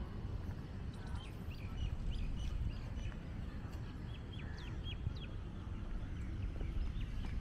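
Small birds calling: a string of short high chirps, most of them in the first two-thirds, over a steady low rumble.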